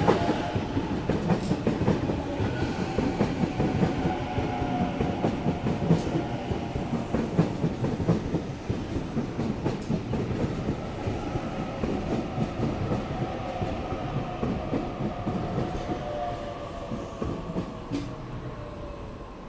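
Sydney Trains Waratah electric trains moving through the platform: one pulling out and another running in. Their traction motors whine with a gliding pitch over a constant rumble and wheel clatter on the rails, and the noise dies down toward the end.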